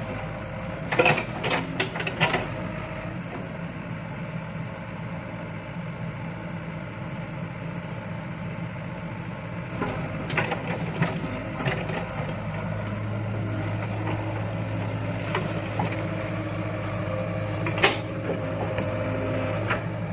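Excavator's diesel engine running steadily, with several sharp knocks from the working machine: a cluster about a second or two in, more around ten seconds in, and one near the end.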